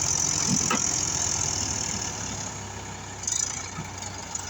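Tractor diesel engine running steadily, growing quieter over the first three seconds, with two faint knocks about half a second in.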